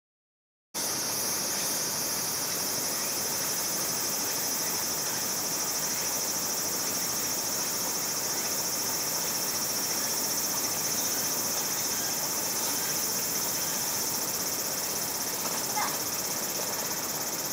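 A steady, high-pitched drone of insects calling, over the even rush of a flowing mountain stream.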